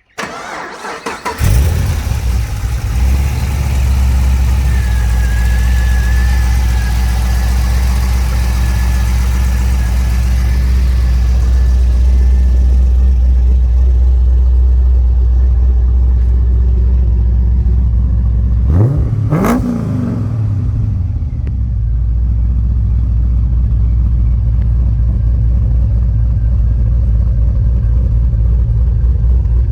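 Cammed 6.0-litre V8 cranking and catching about a second and a half in, then idling steadily. About 19 s in it is given one quick blip of the throttle, its pitch rising and falling back, before it settles to idle again.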